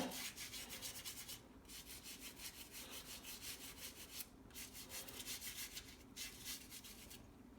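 Toothbrush scrubbing a small soapy metal plaque in rapid back-and-forth strokes, faint and brisk, pausing briefly three times.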